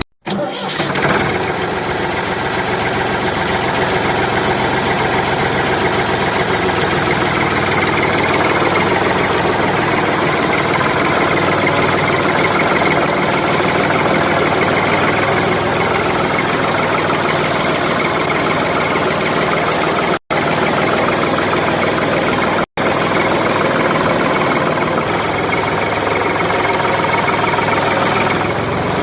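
Small motor of a homemade toy diesel engine water pump running steadily. The sound cuts out for a split second twice in the second half.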